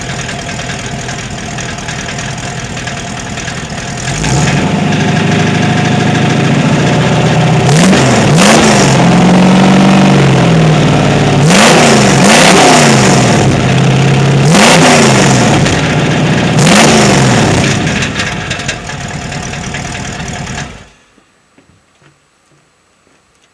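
418 cu in small-block Ford stroker V8, built on a 351 Windsor, running through DynoMax VT valved mufflers on 2.5-inch dual exhaust without a crossover pipe. It idles, then is held at higher rpm about four seconds in and blipped sharply four times; the exhaust is loud and rips under throttle. It drops back to idle and the engine is switched off, cutting out suddenly near the end.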